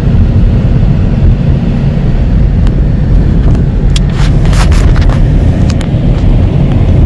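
Car driving along a road: a loud, steady low rumble of engine, tyre and wind noise, with a few short clicks about four to six seconds in.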